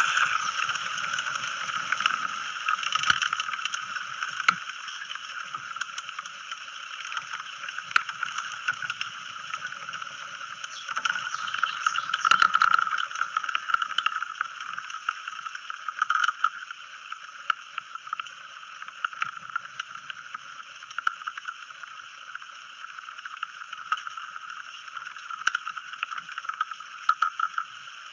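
Recording from a small microphone inside a hollow, broken bamboo stalk as a breeze stirs the bamboo: a continuous, resonant hollow ringing at a few fixed pitches, with many small clicks and crackles, rising and falling in strength.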